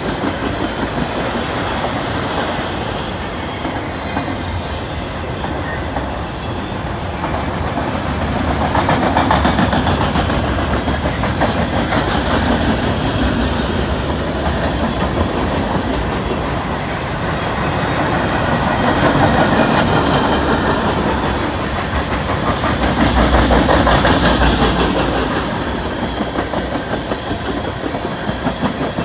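CN train's cars rolling past, wheels clicking over the rail joints in a steady clickety-clack, the sound swelling and easing every few seconds as cars go by.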